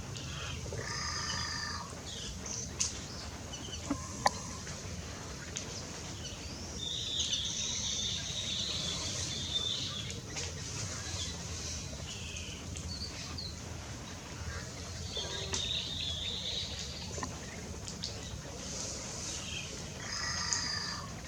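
Birds calling and chirping, with a high chattering run about seven to ten seconds in and again around fifteen seconds, and a few short harsher calls near the start and the end, over a steady low rumble.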